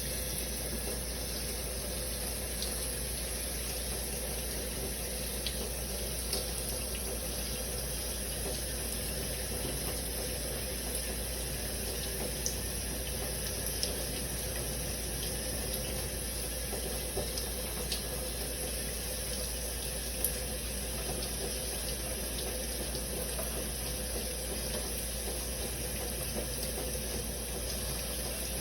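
Shower running steadily, its spray of water falling and splashing without a break, with a few faint sharp ticks of drops now and then.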